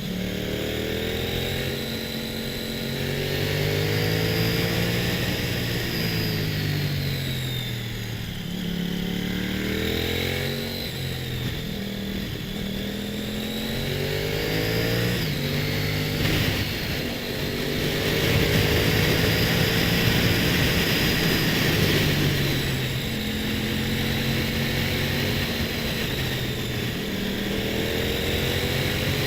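Motorcycle engine under way, its pitch rising and falling again and again as it accelerates, shifts and eases off, over a steady rushing noise.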